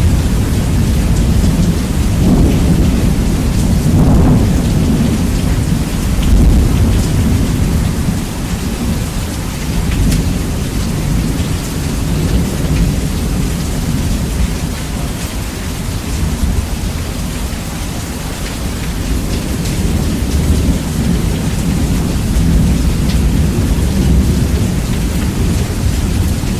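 Heavy rain with rolling thunder, bass-boosted so the low rumble dominates, swelling a few seconds in and again near the end.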